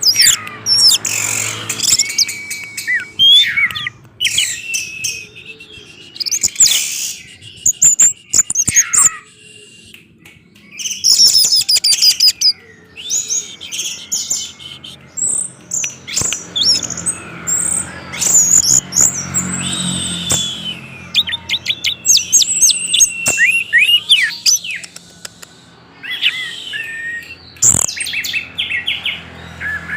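Orange-headed thrush (anis merah) singing a long, varied song of quick whistled phrases and chirps, broken by short pauses.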